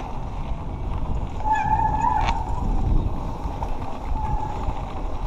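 Mountain bike descending a dirt trail: rumbling wind and tyre noise. About a second and a half in, a steady high whine sounds for just under a second and stops with a sharp click.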